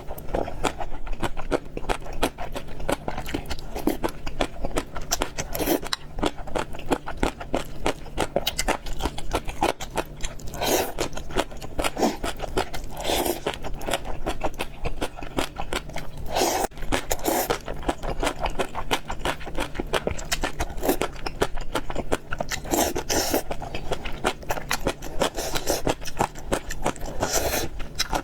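Close-miked chewing of fried noodles and pork: a dense run of wet mouth clicks, with louder bites and mouthfuls every couple of seconds.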